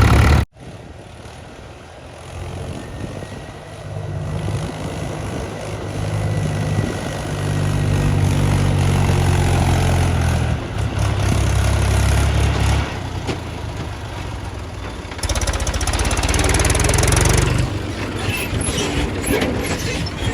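Heavy diesel machinery engine running, its revs rising and falling under load, after an abrupt cut about half a second in.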